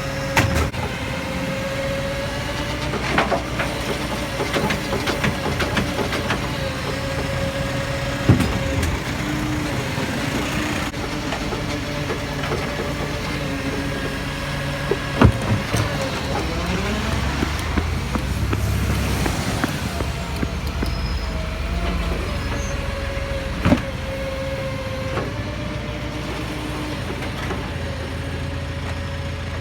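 Garbage truck running, a steady whine over the engine, with several sharp metallic clunks spread through and a gliding change in pitch with heavier rumble about halfway through.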